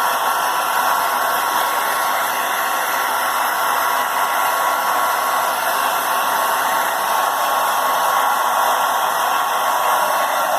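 Handheld hair dryer running steadily, a loud even rush of air with a faint high whine, as it blows on a freshly bathed cat to dry its fur.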